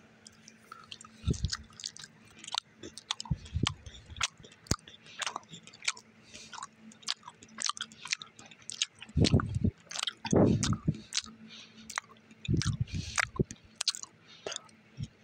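A person chewing a piece of chocolate close to the microphone: irregular wet mouth clicks and smacks, with several brief low thumps.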